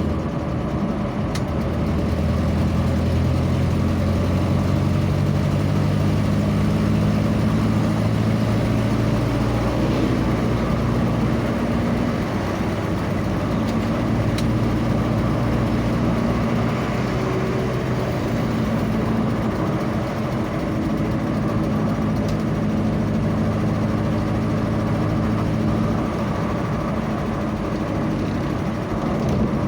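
A vehicle's engine running steadily on the move, its note shifting a few times, over steady road noise.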